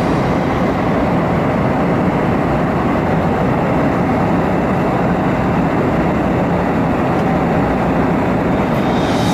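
Steady roar of an airliner cabin: jet engines and airflow.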